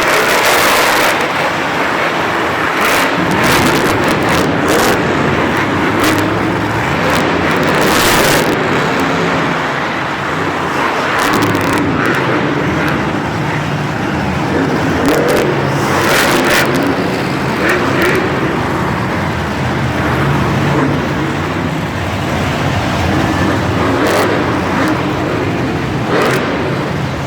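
Monster truck engines running and revving loudly without a break, with a few short sharp spikes cutting through.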